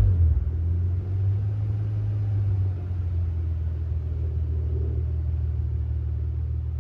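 Nissan Skyline ER34 25GT Turbo's RB25DET turbocharged straight-six idling through an aftermarket front pipe and HKS Silent Hi-Power muffler. It is a steady, low exhaust rumble, settling to idle right after a rev.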